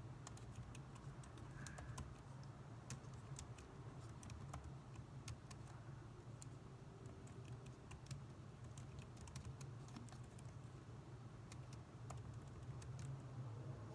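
Faint typing on a computer keyboard: irregular key clicks at an uneven pace, over a steady low hum.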